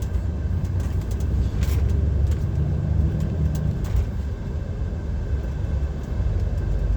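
Inside the cab of a DAF XF 530 lorry: its PACCAR MX-13 straight-six diesel running under way with a steady low drone and road noise, with a few faint clicks.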